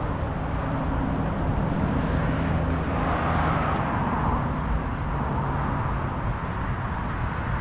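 Steady road traffic, with a vehicle engine's low hum and a swell as a vehicle passes about three seconds in.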